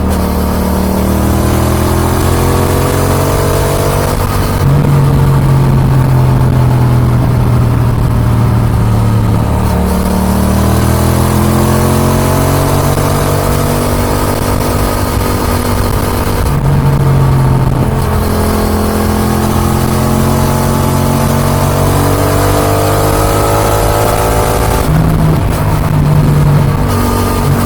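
Yamaha XSR 700's 689 cc CP2 parallel-twin engine through an Akrapovic dual exhaust, pulling hard on the road. Its pitch climbs steadily under acceleration and then drops back, about three times, as the bike shifts or eases off.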